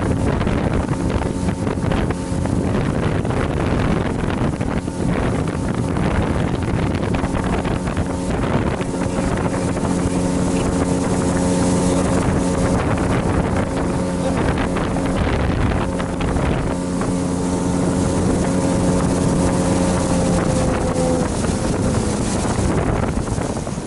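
RNLI lifeboat's engine running at a steady speed under way, with wind on the microphone; the engine note drops away about three seconds before the end.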